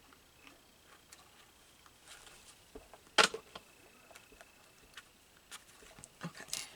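Quiet handling of paper cutouts on a craft table: a few light rustles and small clicks, with one sharp tap about three seconds in.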